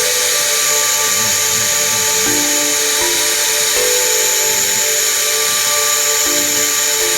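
MITS ElevenLab desktop PCB mill cutting a board: the high-speed spindle gives a steady high whine and hiss, while the stepper motors hum in steady tones that jump to new pitches every second or so as the axes change speed and direction.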